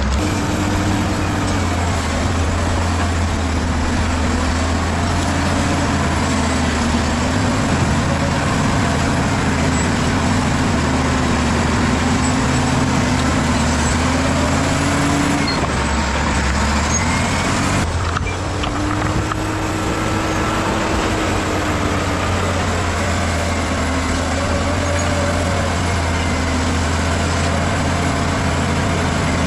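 Bulldozer's diesel engine running hard, its pitch drifting up and down with the load as it pushes soil, with a brief dip about eighteen seconds in.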